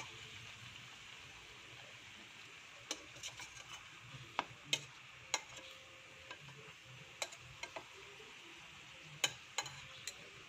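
Banana pieces sizzling softly in hot oil in a stainless steel frying pan, with metal tongs clicking and tapping against the pan at irregular moments as the pieces are lifted out to drain.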